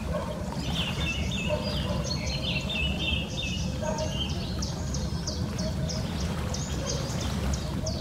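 Wild birds calling around the water: many short high chirps and downward-sliding whistles, turning to a quick run of repeated high notes about halfway through, over a steady low rumble.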